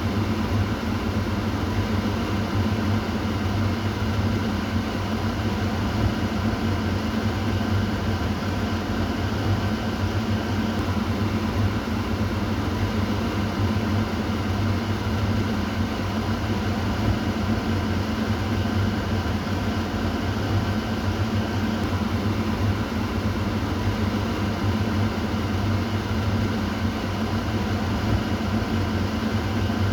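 Kitchen exhaust fan running steadily: a low, even hum under a constant rush of air.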